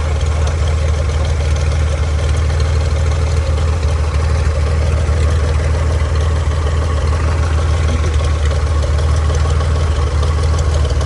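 1948 Cessna 170's six-cylinder Continental C-145 aircraft engine idling steadily on its first run after sitting unused.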